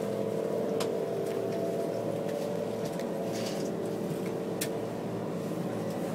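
Steady drone and hum inside a Mugunghwa passenger train carriage, with a few sharp clicks.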